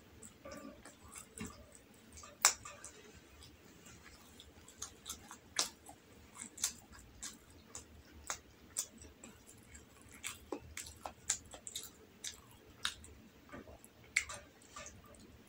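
A person chewing rolled egg omelette, with sharp wet mouth clicks at irregular intervals; the loudest comes about two and a half seconds in.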